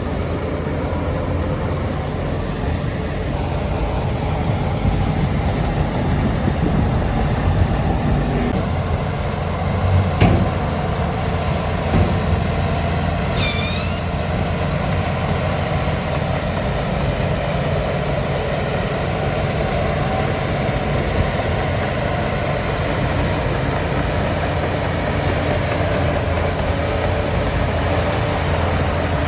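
Heavy diesel earthmoving machinery running steadily, with a couple of sharp knocks about ten and twelve seconds in and a brief high squeal about thirteen seconds in.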